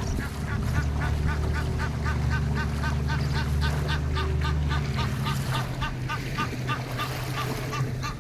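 A bird giving rapid, repeated short honking calls, about three or four a second, over the low steady hum of the boat's motor, which drops off about five seconds in.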